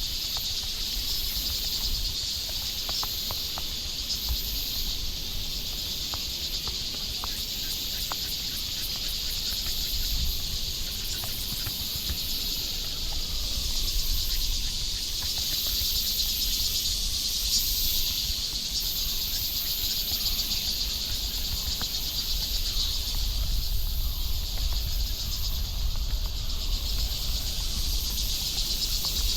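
Steady high-pitched chorus of insects in forest, with a low rumble underneath.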